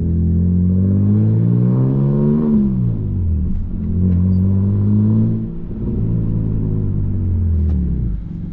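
BMW 135i's N54 3.0-litre inline-six, converted to a single turbo with a straight-piped exhaust, revved twice: the pitch climbs for about two and a half seconds and drops back, then rises again around four seconds in and falls away near the end.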